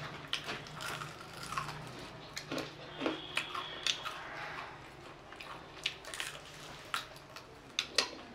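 Biting and chewing crispy fried chicken: irregular crunches and mouth clicks, the sharpest one near the end.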